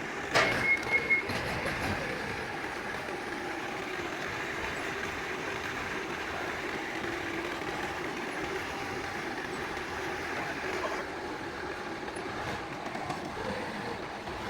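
A few sharp metal clanks in the first second, one ringing briefly, followed by a steady mechanical hum.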